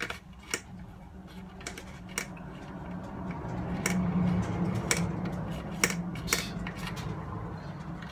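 Sharp plastic clicks and knocks from a cheap portable radio's casing and parts being handled and pried during disassembly, with a scraping, rustling stretch in the middle.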